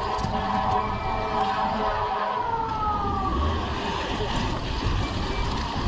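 Street siren of an emergency vehicle, a held pitched tone that slides down in pitch and fades about halfway through, over city traffic noise. Wind rumbles on the microphone in the second half.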